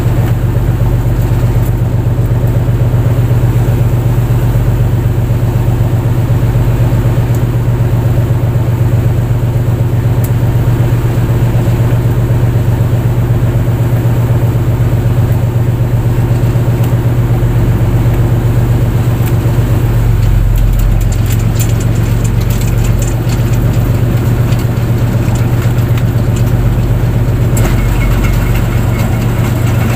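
A fishing boat's engine running steadily with a loud, low, even hum. Its pitch drops slightly about two-thirds of the way through, and a few light clicks come near the end.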